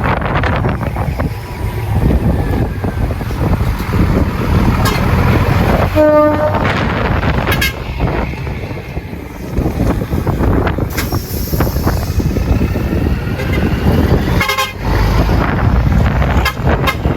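Heavy decorated trucks running with a continuous low engine rumble; a short horn toot about six seconds in and a second, higher-pitched horn sound later on.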